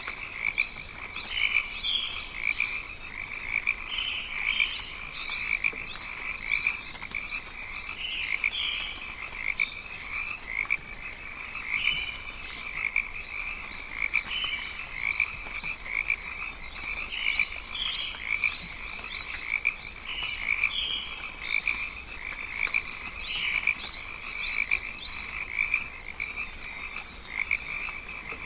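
Rainforest animal chorus: a dense, continuous, pulsing chorus of calls, with short runs of higher, quick chirps every few seconds.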